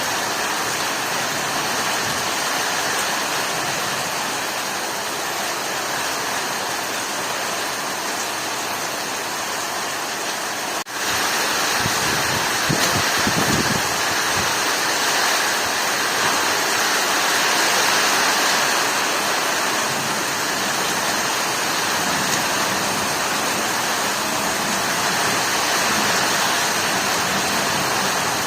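Heavy rain pouring in a steady hiss. About eleven seconds in it drops out for an instant, then comes back a little louder.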